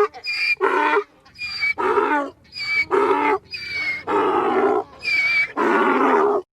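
An animal calling over and over: a rapid series of short, pitched calls, about two a second, that stops abruptly near the end.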